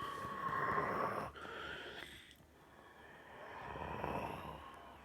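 Jet airliner engines whining, with a rising tone, under a rush of engine noise that swells and fades in gusts and drops suddenly about a second in.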